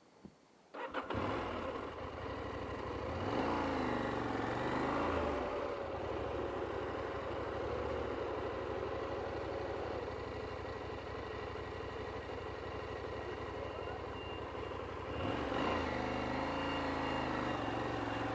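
Motorcycle engine running as the bike moves off, its note rising and falling twice as the throttle is opened and eased.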